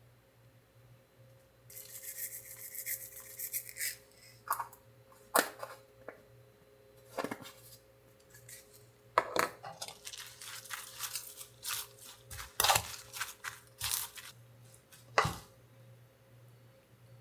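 Dishes and utensils clattering: a stretch of scraping early on, then several sharp knocks and clinks scattered through, over a faint steady hum.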